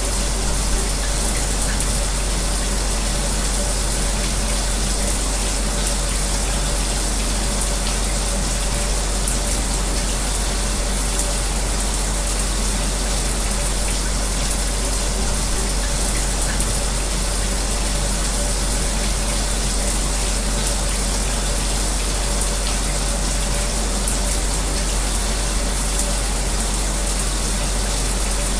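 A running shower spraying steadily, mixed with the constant hum of a fan, as an even white-noise hiss with a steady low rumble beneath it.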